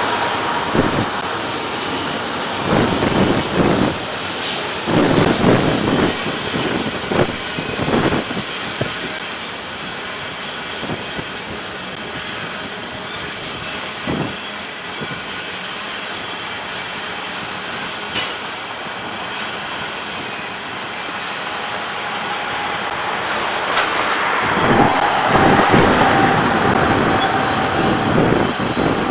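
Union Pacific freight train cars rolling past, with a steady rumble of wheels on rail. Irregular clanks and knocks are thick at first, ease off through the middle, and grow louder again near the end, where a held tone also rises.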